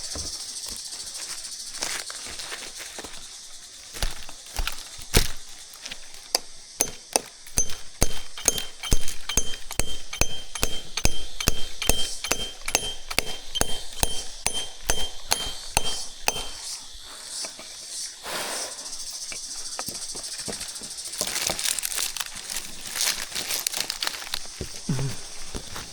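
A rapid, irregular run of sharp clicks and knocks, thickest in the middle, followed by a stretch of rustling.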